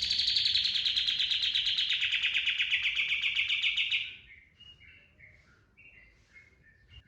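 Kapas tembak songbird giving its rapid machine-gun trill, the 'tembakan' burst, for about four seconds while slowly dropping in pitch. It then breaks into faint, short whistled notes.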